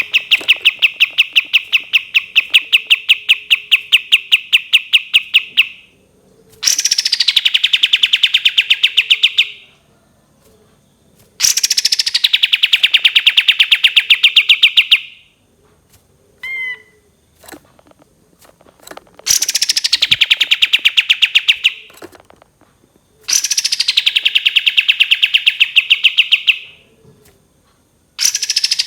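Kapas tembak songbird singing its long rapid trills: six runs of fast, evenly repeated notes, each lasting three to six seconds, most starting high and dropping quickly in pitch before holding steady, with a brief chirp in one of the gaps.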